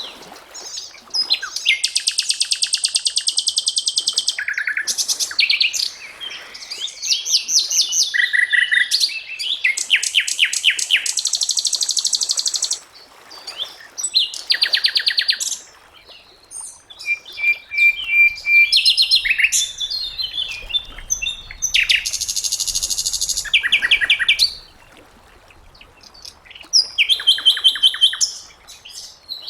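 Sikatan londo flycatcher singing: a varied string of high, rapid trills and buzzy phrases, each a second or two long, broken by short pauses.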